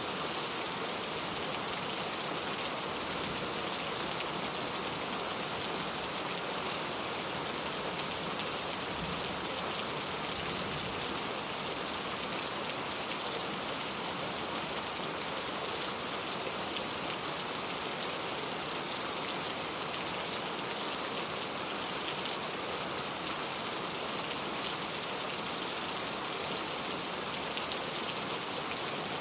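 Steady rain falling, an even hiss of many drops with faint individual patters on a hard surface.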